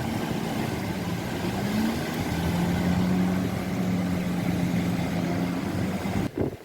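A motor engine running steadily, its hum fading out shortly before the end, over a steady rushing noise.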